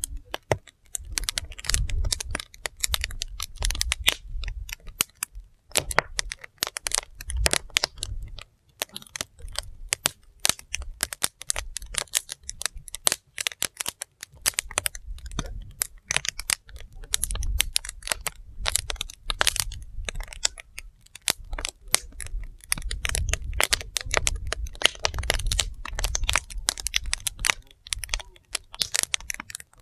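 Wood fire burning, crackling and popping with a dense, irregular run of sharp snaps. A low rumble swells and fades underneath.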